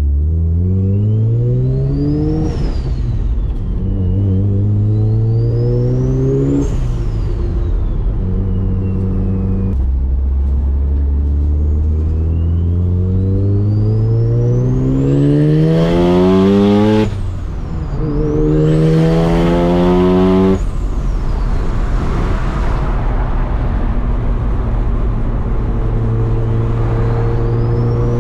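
Turbocharged Mazda RX-7 FD accelerating hard through the gears. The engine note climbs with each pull and drops at each shift, a few times over, while a loud turbo whistle rises in pitch with it as the turbo spools up.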